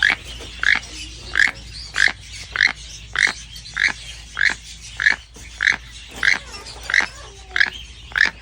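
A bird calling in a steady run of short, harsh calls, about one and a half a second.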